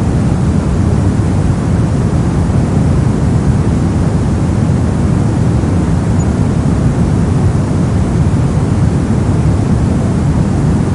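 Steady, unchanging electronic white-noise track: an even rushing hiss with most of its weight low, so it sounds deep rather than bright.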